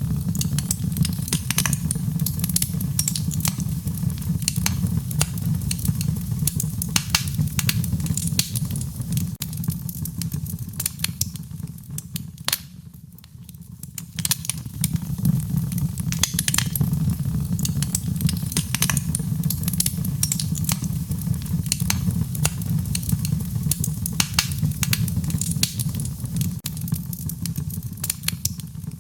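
Wood fire burning in a fireplace: a steady low rumble of flames under frequent sharp crackles and pops from the burning logs. The rumble briefly drops away a little before halfway through, then comes back.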